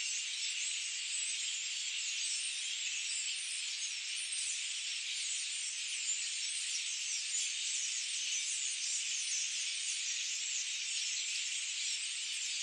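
Forest ambience: a dense, steady chorus of high-pitched chirps and trills with no pauses.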